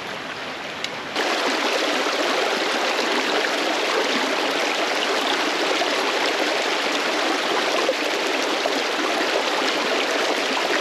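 Mountain creek running, a steady rush of water that jumps abruptly louder about a second in.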